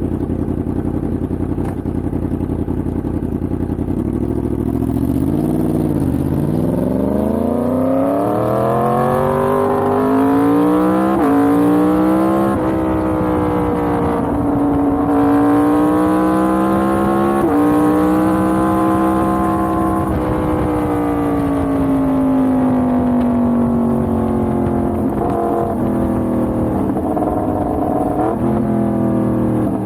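Yamaha MT-10's crossplane inline-four engine running at low revs, then revving up steeply from about six seconds in with quick gear changes. It holds a steady speed, eases off, and shifts again in the last few seconds.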